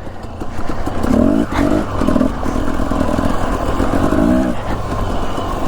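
Husqvarna TE250 enduro dirt bike engine running under way, revving up and falling back in repeated surges as the throttle is worked over rough single track.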